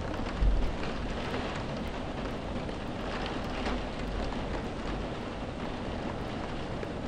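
Steady rain falling, a dense even hiss, with a brief low thump about half a second in.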